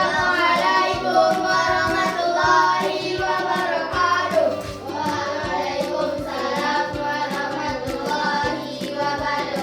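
A song with singing voices over instrumental backing and a steady beat.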